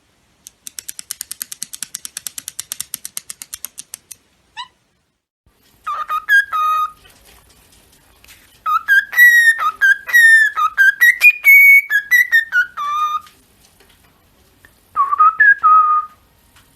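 A parrot whistling a tune: a short phrase, then a longer melody stepping up and down in pitch, then a brief phrase near the end. It opens with a rapid run of clicks, about ten a second, lasting a few seconds.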